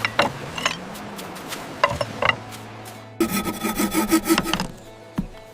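Hand saw cutting through wood in rasping strokes, with a few sharp knocks; a quicker, louder run of strokes about three seconds in.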